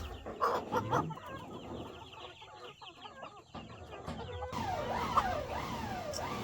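Chickens clucking and calling, with a run of repeated falling calls in the last couple of seconds.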